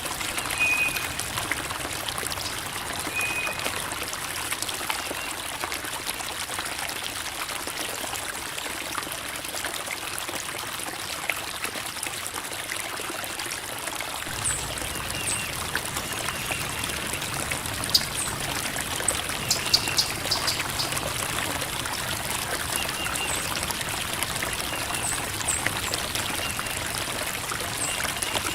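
Creek water babbling and trickling steadily over rocks, with a few short high chirps now and then.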